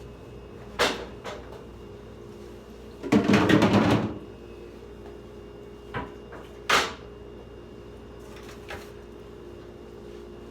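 Plastic refrigerator parts being handled and fitted back in: a few sharp knocks and clunks, with a second-long clattering scrape about three seconds in.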